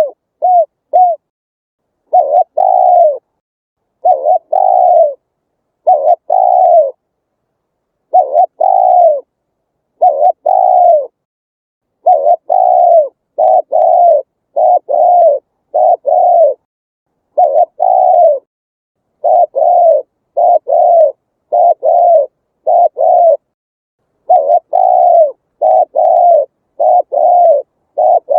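Spotted dove cooing over and over: short hollow coo notes that each rise and fall in pitch, in pairs and runs of two to four with brief gaps between. This is the call used as a loudspeaker lure for wild doves.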